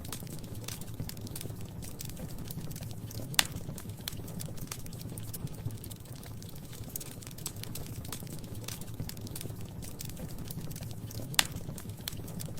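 Wood fire crackling in a fireplace: a steady low rumble of flames under many small crackles, with two sharp, loud pops about eight seconds apart.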